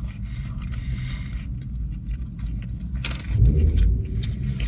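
Sandwich wrapper paper rustling and crinkling while someone eats, over a steady low rumble from a car. A louder low rumble swells about three seconds in.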